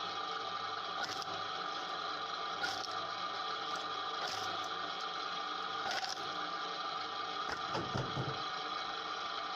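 Homemade firewood splitting machine running steadily, with a sharp knock about every one and a half seconds and a heavier low rumble about eight seconds in.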